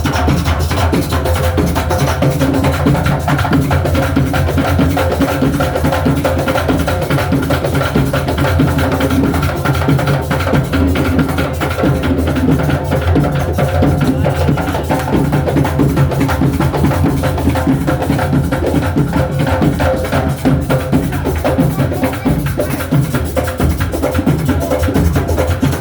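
A percussion ensemble of drums playing a fast, dense, unbroken rhythm, with many sharp strokes a second.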